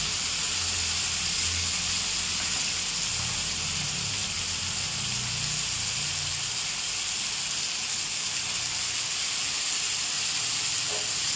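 Chicken fillets sizzling steadily as they fry in hot fat in a cast iron skillet.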